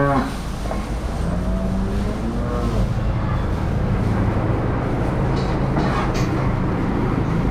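A vehicle engine idling steadily, a low even hum, most likely the truck hitched to the cattle trailer.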